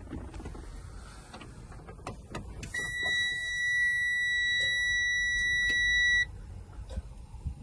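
A dashboard warning buzzer in a Freightliner M2 truck cab sounds one steady high-pitched tone for about three and a half seconds, then cuts off sharply, as the ignition is switched on before the engine is started. Clicks and handling noises come before it.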